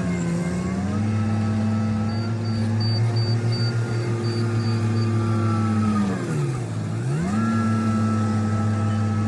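Mini excavator's diesel engine running steadily. Its pitch sags briefly just after the start, then drops deeply about six and a half seconds in, as if lugged by a hydraulic load, before climbing back to its working speed. A faint, high, intermittent beeping runs through the middle.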